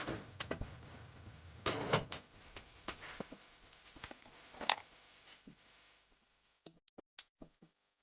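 Irregular knocks and clunks of gear being handled, with a low rumble under the first half; it goes much quieter near the end, leaving a few light clicks.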